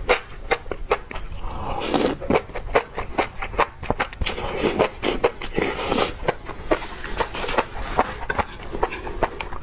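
Close-miked chewing of spicy enoki mushrooms: wet smacking clicks, several a second.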